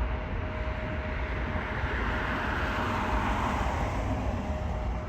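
Jet engine noise from a Boeing 787-9 departing on takeoff: a steady rush that swells about two to three seconds in and eases slightly near the end, over a low rumble.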